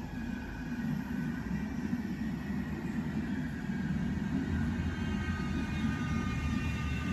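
Manchester Metrolink tram running on its rails, a steady low rumble with faint high-pitched whining tones, growing slowly louder as it approaches.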